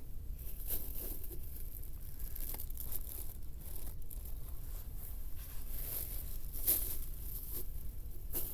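Irregular crinkling and rustling over a low, steady rumble.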